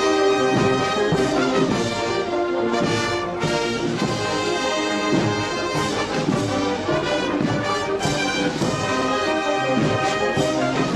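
Brass band playing a Holy Week processional march: sustained trumpet and trombone chords over regular percussive strokes.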